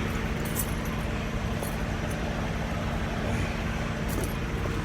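Steady low rumble of semi-truck engines idling, with a faint constant hum.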